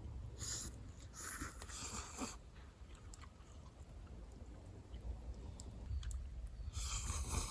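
Someone eating yakisoba close to the microphone: chewing, with three short noisy bursts about half a second in, from about one to two seconds in, and near the end, over a steady low rumble.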